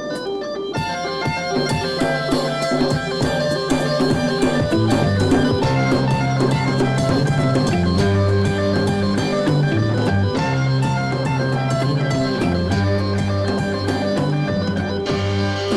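Late-1960s rock band playing an instrumental intro on a vinyl record: organ, electric guitar and drum kit, with the drums and full band coming in about a second in after the organ alone.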